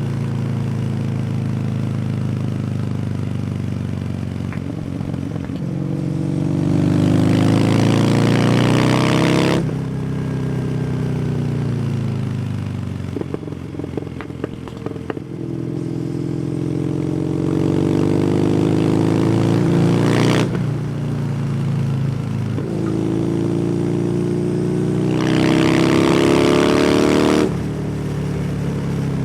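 Kawasaki W800's air-cooled parallel twin through an SC Project exhaust, pulling up through the revs three times and dropping off sharply each time the throttle closes or a gear changes. Between the pulls there is a short run of crackles from the exhaust on the overrun.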